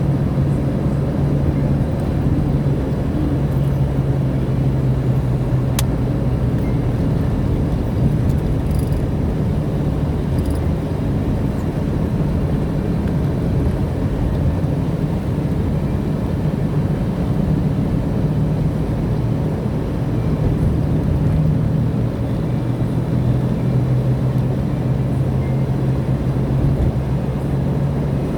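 Car interior while driving: a steady engine hum with tyre and road rumble.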